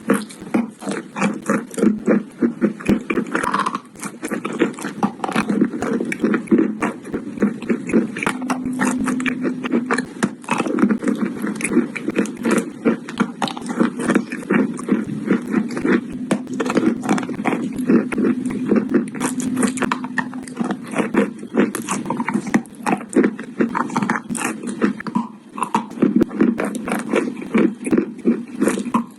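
Close-up crunching and chewing of chalk: rapid, irregular crisp bites and crunches without pause, from wet chalk coated in clay and dry chalk in clay paste eaten at the same time.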